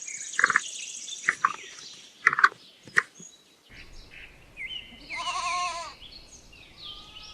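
Capybara vocalizations: a quick series of short squeaks, chirps and clicks, then two whining calls, the first longer and wavering in pitch.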